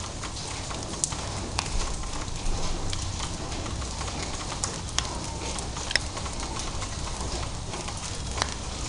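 Light drizzle falling: a steady soft hiss with single drops ticking at irregular moments.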